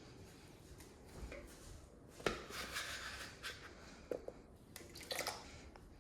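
Quiet kitchen handling sounds: a few light knocks and clatters of pots and utensils, with a short patch of hiss after the first sharp knock.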